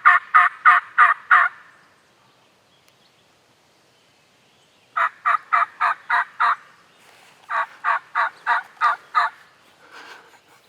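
Turkey yelping: a run of evenly spaced yelps that stops about a second and a half in, then after a pause two more runs of six or seven yelps each, the last one trailing off faint.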